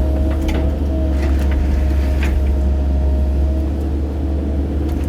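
Excavator's diesel engine running steadily at a constant speed, a deep even hum with a steady whine above it.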